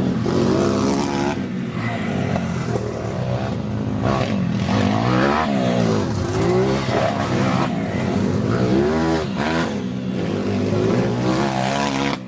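Dirt bike engines revving up and down as the bikes ride, their pitch rising and falling every second or two, with more than one engine heard at once.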